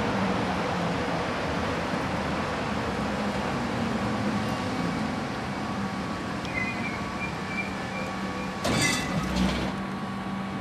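Electric tram running on rails, a steady rumble with a low hum. A thin high squeal sets in past the middle, then a short loud rattling clatter comes near the end.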